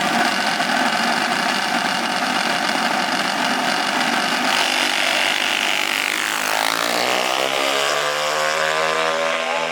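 Small motor-vehicle engine running; about six and a half seconds in, a clearer engine note comes up and its pitch slides.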